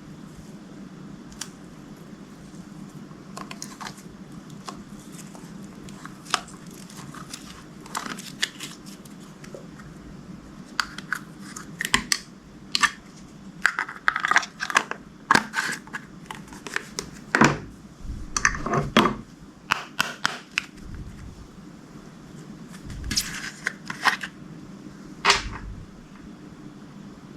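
Crinkling, crackling and tearing from slime-making materials being handled: bags of add-ins and crunchy slime. The sounds come in irregular clusters, busiest through the middle and again near the end, over a steady low hum.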